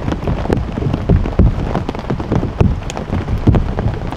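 Rain pattering on a tarp shelter: a dense patter of irregular drops and taps striking the fabric.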